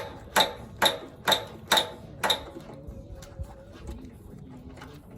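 A 3/8-inch ratchet clicking as it is worked back and forth to loosen the carburetor bowl bolt: six sharp clicks about two a second, then quieter handling sounds for the rest.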